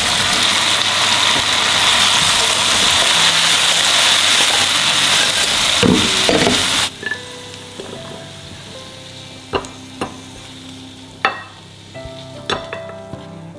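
Fried fish and chilies stir-fried in oil in a wok: a loud sizzle with the spatula stirring, which cuts off suddenly about seven seconds in. Then a few sharp knocks and scrapes as the wok and spatula tip the food onto a plate.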